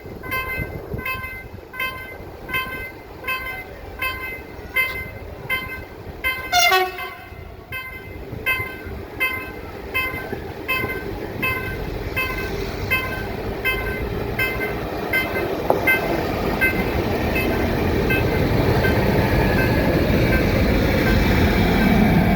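A trackside warning bell chimes evenly, about once a second, while a short falling toot sounds about six seconds in. In the second half, the rumble of the approaching TCDD MT 15400-series diesel railcar grows steadily louder as it runs into the station.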